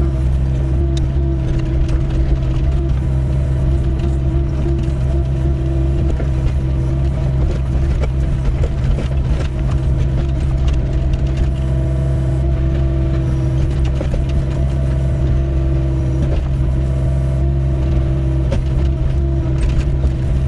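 Doosan 55W wheeled excavator's diesel engine running steadily at working speed while digging, with scattered light clicks and knocks throughout.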